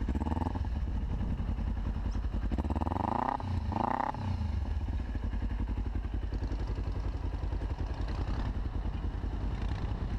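Kawasaki Ninja 250R's parallel-twin engine being revved with quick throttle blips. Pitch drops back from a rev right at the start, then two blips come close together about three to four seconds in, each rising and falling back to idle. It then idles steadily.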